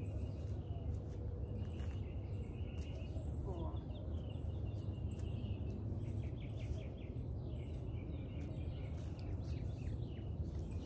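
Small birds chirping and trilling repeatedly over a steady low background rumble.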